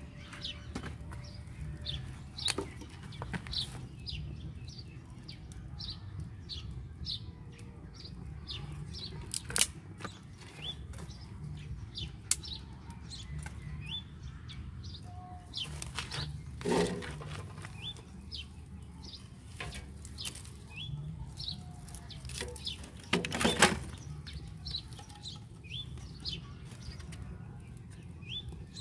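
Small birds chirping repeatedly in short, quick calls over a steady low rumble, with a few sharp knocks, the loudest two in the second half.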